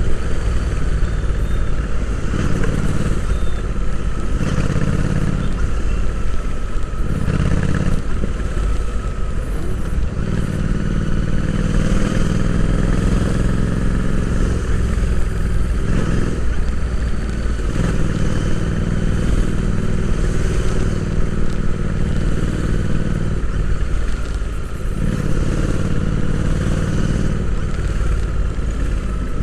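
Royal Enfield Interceptor 650's 648 cc parallel-twin engine running while the bike is ridden, heard from onboard; its note breaks off briefly several times and picks up again.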